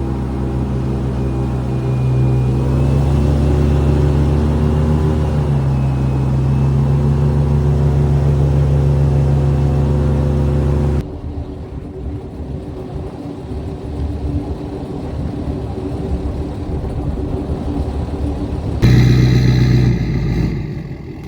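Steady drone of a vehicle driving, its engine and road noise running evenly. The sound changes abruptly twice: it drops to a quieter, rougher rumble about halfway through, then turns louder again near the end.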